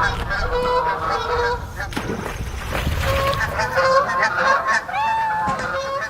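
Honking bird calls, many overlapping, with one longer arched honk about five seconds in.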